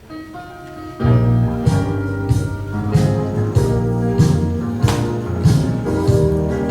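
Upbeat band music with guitar: a few soft notes, then about a second in the bass and drums come in with a steady beat.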